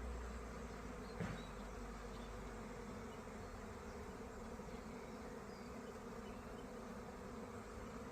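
A swarm of bees, thought to be honeybees, buzzing as a steady, faint hum of many wings. There is one brief knock about a second in.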